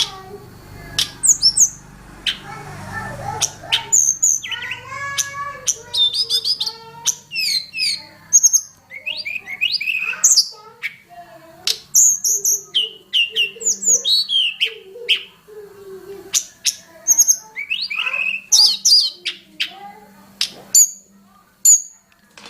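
Tledekan gunung singing a fast, varied song: quick chirps, slurred whistles and short trills in close succession, with brief pauses between phrases and a varied mix of phrases.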